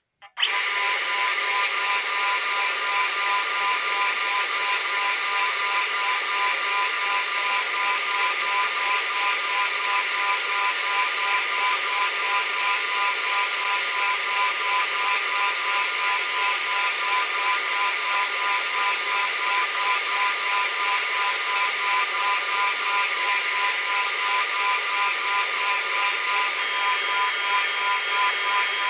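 A power tool running steadily with a whining hum and a slight regular flutter. It starts abruptly about half a second in.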